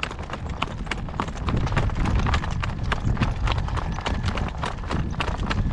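Horse's hooves clopping in a steady trotting rhythm as a young harness horse is driven at a working trot.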